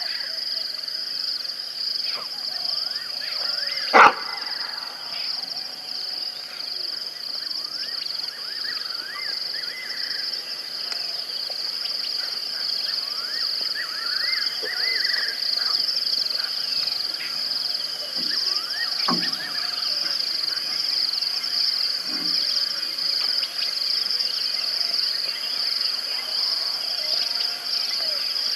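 Outdoor natural ambience: a steady high-pitched insect drone with many short bird chirps over it. There is a sharp knock about four seconds in and a smaller one near nineteen seconds.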